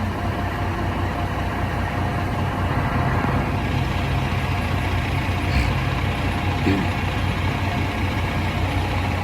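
Steady rumble of street traffic with heavy vehicles running, and two brief knocks a little past the middle.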